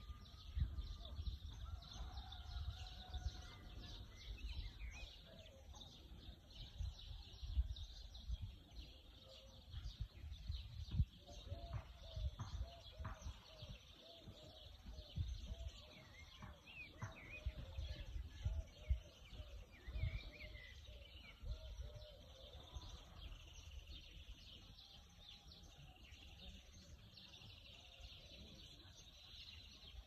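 Birds chirping and calling, with a run of short repeated notes in the middle, over low rumbling bumps on the phone's microphone.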